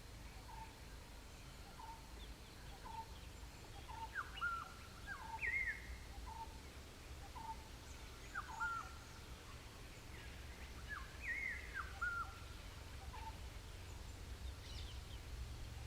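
Wild birds calling. One repeats a short note about once a second, while another gives a louder, rising-and-falling whistled phrase three times, all over a steady low rumble.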